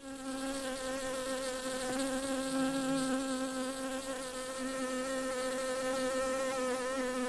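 Honey bees buzzing: a steady hum that wavers slightly in pitch.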